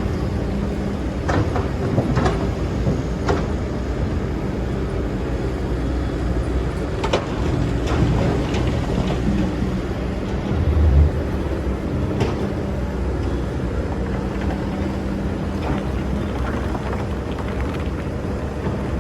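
Excavator's diesel engine running steadily, with scattered sharp clanks and one heavy low thump about eleven seconds in.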